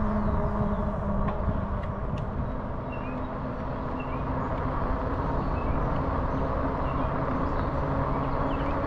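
Electric bike riding along a trail: a steady rumble of wind and tyres on the microphone, with the motor's steady whine drifting a little in pitch. A few faint high chirps sound in the middle.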